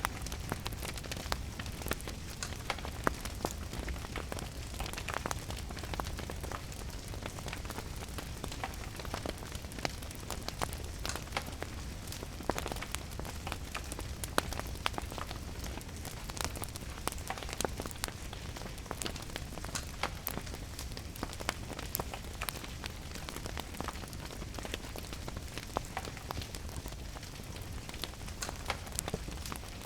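Steady rain with a wood fire crackling, frequent sharp pops and snaps over a low rumble.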